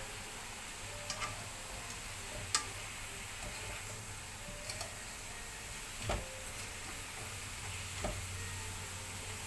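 Steady sizzling hiss of green papaya frying in oil in a pot, with a few light clicks of a cooking utensil against the pot.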